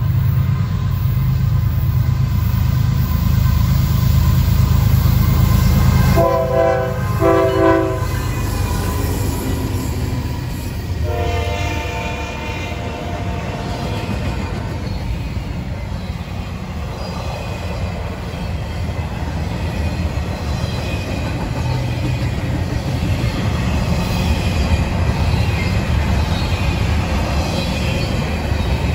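Diesel freight locomotives passing with a heavy engine rumble. The horn sounds two blasts about six to eight seconds in and a fainter note around eleven seconds. After that comes the steady rolling noise of a long string of freight cars, with wheel clatter and thin wheel squeal.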